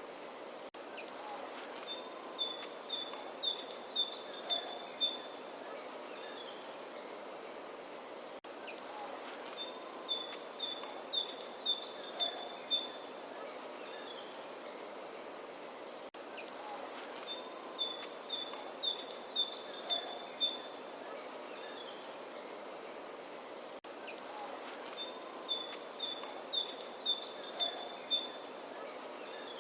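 Songbird singing the same phrase four times, about eight seconds apart: each a high falling whistle followed by a run of quick alternating notes, over a steady outdoor hiss.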